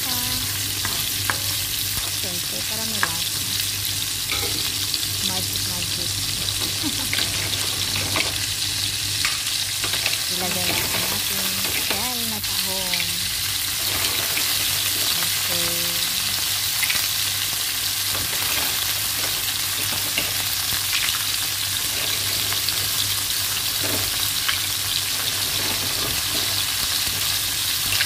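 Sliced shallots, garlic and ginger sizzling steadily in hot olive oil in a nonstick wok, with scattered clicks and scrapes of a spatula stirring; mussels in their shells are added and fry along with them.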